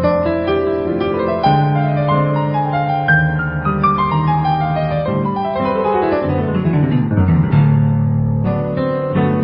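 Background piano music: sustained bass notes under quick descending runs of notes, rising again near the end.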